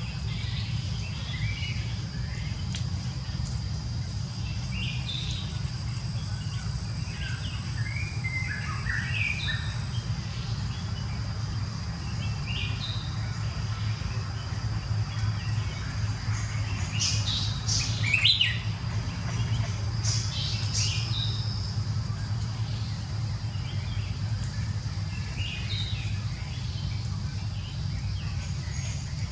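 Birds chirping, short scattered calls throughout, with a louder cluster of calls about two-thirds of the way through, over a steady high-pitched drone and a low background rumble.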